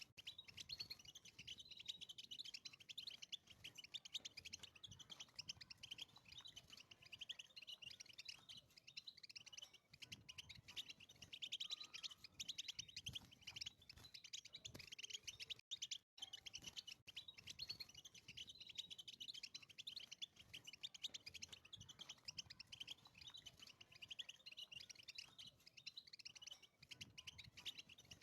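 European goldfinch singing a rapid, high-pitched twittering song that goes on with hardly a break.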